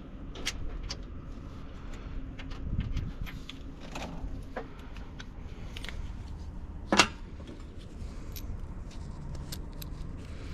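Scattered light metallic clicks and clinks of handled metal, with one sharper knock about seven seconds in, over a steady low hum.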